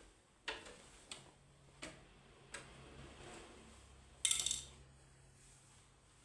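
Hard objects being handled on a workbench: a series of separate clicks and knocks, then a brief louder rattle a little after four seconds in, with a faint low hum under the middle of it.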